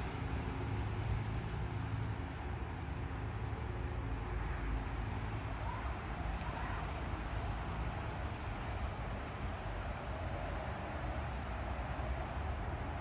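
An insect trilling in a run of even, high-pitched bursts of about a second each with short breaks between them, over a steady low rumble.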